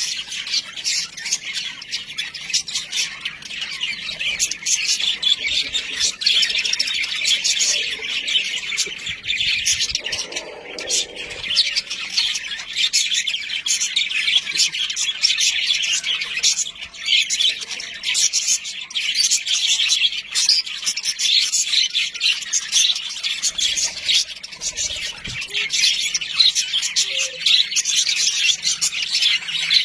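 Budgerigars chattering and chirping continuously, many rapid overlapping chirps and warbles with occasional harsher squawks.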